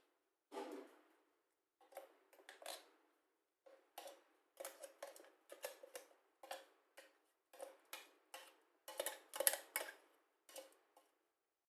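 Faint, irregular sharp clicks and knocks of kitchen utensils at work, about one or two a second, coming thickest near the end.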